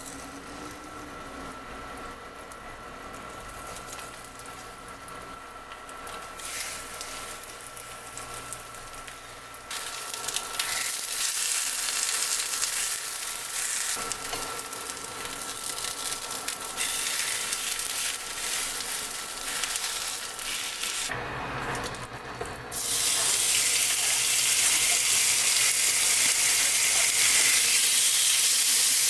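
Food sizzling as it fries in a pan, growing louder in steps and jumping sharply louder near the end, as if more food or oil has gone into the hot pan.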